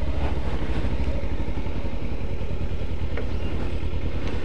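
Kawasaki Ninja 300's parallel-twin engine running steadily at low revs, with no revving or change in pace.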